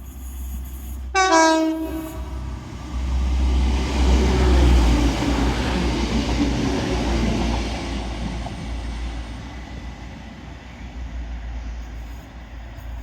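TransPennine Express Class 185 diesel multiple unit passing through the station. It gives a short horn blast about a second in, then its rumble builds to a peak around four to five seconds in and slowly fades as it goes by.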